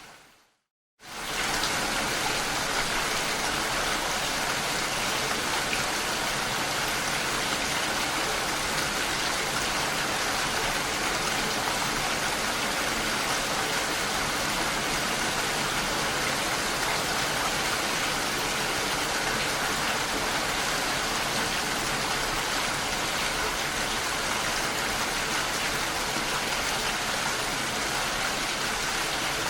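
Steady, even rain falling. It fades out to silence right at the start and comes back abruptly about a second in, then holds steady.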